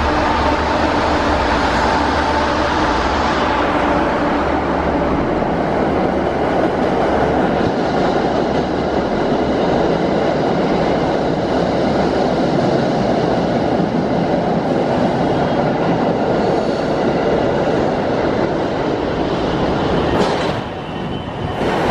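MBTA commuter rail train rolling past: a steady, continuous noise of steel wheels on rail that dips briefly near the end.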